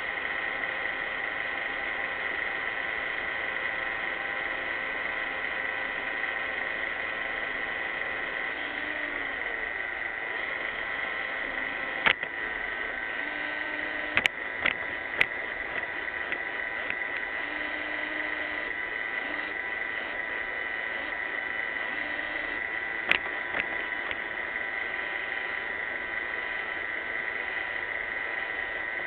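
iRobot Roomba 600-series robot vacuum running: a steady whirring hum with a high whine, broken by a few sharp knocks.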